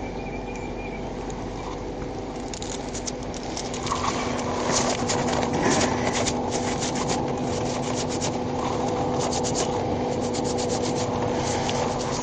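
A vehicle driving: a steady engine and road hum with a noisy rumble, joined a few seconds in by irregular scraping and crackling that grows louder about four seconds in.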